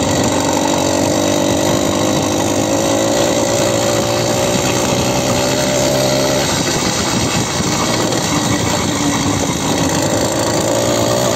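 Motorcycle engine running steadily while being ridden with no working clutch, its pitch sagging a little in the middle and rising again near the end.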